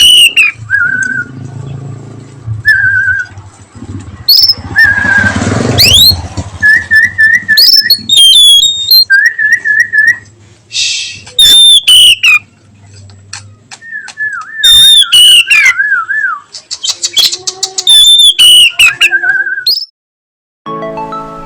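Oriental magpie-robin (kacer) singing loud, clear whistled phrases, mixing falling glides, quick warbling trills and repeated notes, then breaking off near the end.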